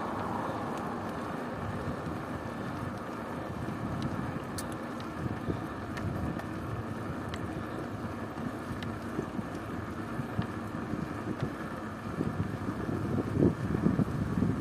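Wind buffeting the microphone of a camera on a moving bicycle, over a steady rolling noise, with a few faint ticks; the gusts grow stronger near the end.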